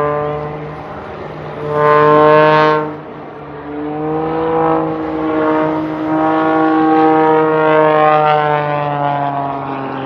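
Piston engine and propeller of an aerobatic sports plane, its pitch rising and falling as it maneuvers. Loudest in a brief swell about two seconds in.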